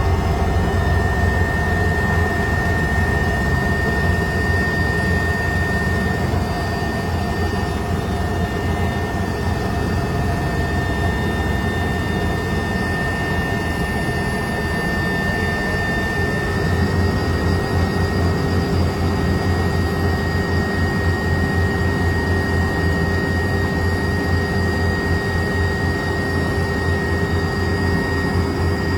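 Helicopter in flight: the turbine engine and rotor run steadily, with a constant high whine over a low, fast-pulsing rotor beat.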